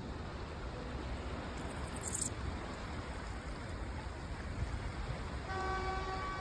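A vehicle horn sounds one held note for about a second near the end, over a steady rushing noise.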